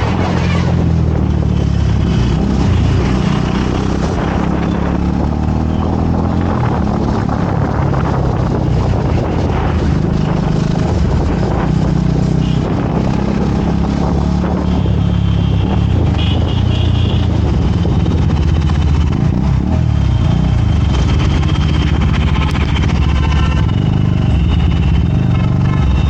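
Motorcycle engine running steadily while riding, its pitch drifting a little as the speed changes.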